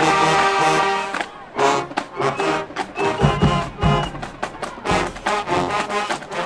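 High school marching band playing its field show: brass with drumline percussion, with a sustained brass chord at the start giving way to short, punchy accented hits.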